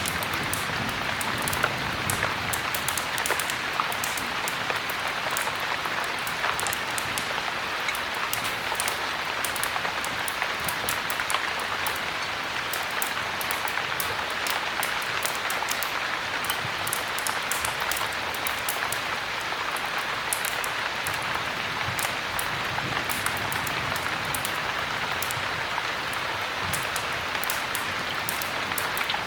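Steady heavy rain, an even hiss, with many small sharp ticks scattered all through it.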